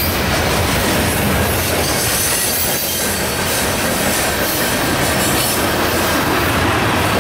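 Freight cars of a passing mixed manifest train rolling by close: a steady, loud rumble and rattle of steel wheels on the rails, with the clack of wheels over rail joints.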